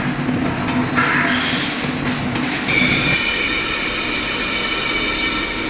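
CNC twin-head milling machine cutting metal: steady machining noise that shifts abruptly about a second in, then turns into a high, squealing whine of several steady tones from about three seconds in.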